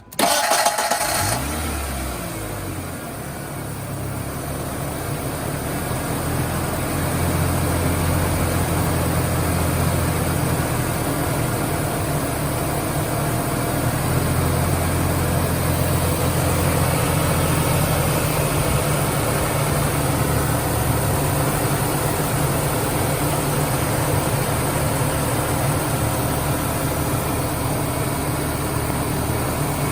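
1996 Ford Ranger engine starting, catching within about a second, then idling steadily for the rest of the time, settling louder and even over the first several seconds. With its vacuum leak plugged, it runs well from the first start.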